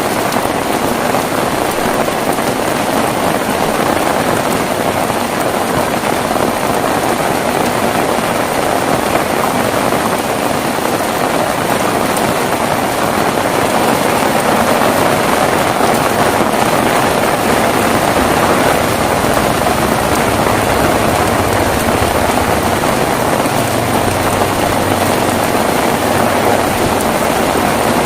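Heavy rain falling steadily, a dense even hiss that gets a little louder about halfway through. A faint low hum joins in during the last third.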